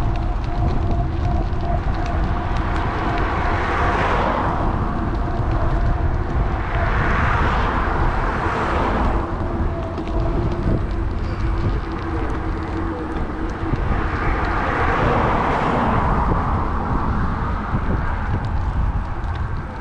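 Wind rumbling on a bike-mounted action camera's microphone while riding, as cars pass several times with tyre and engine noise that swells and fades.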